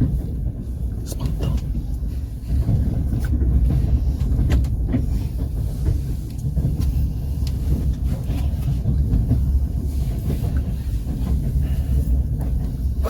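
Passenger train rolling along the track, heard from aboard: a steady low rumble of wheels on rail with scattered sharp clicks and knocks.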